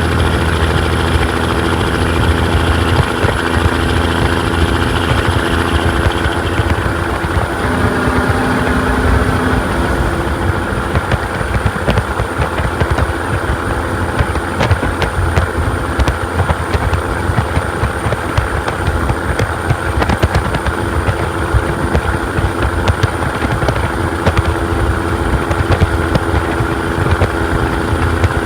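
Caterpillar 6NZ (3406E) inline-six diesel in a 1998 Peterbilt truck running steadily under way. A high thin whine sits over the engine's low drone, with a slight shift in pitch about six to ten seconds in.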